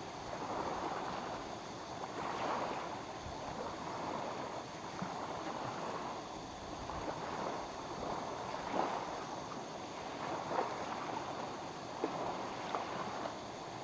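Small lake waves lapping at the shore, a steady wash that swells and ebbs every few seconds, with a few light ticks in the second half.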